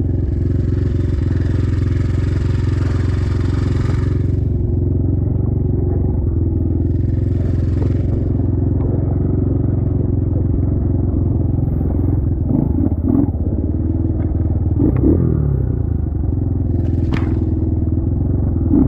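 Trailmaster TM33 dirt bike engine running steadily while being ridden, with a rushing hiss over it for the first four seconds and a few short knocks and scrapes later on.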